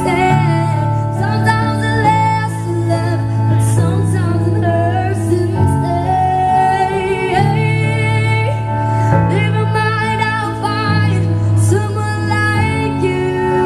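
A woman singing a slow melody with accompaniment, holding long wavering notes over sustained bass chords that change every second or two.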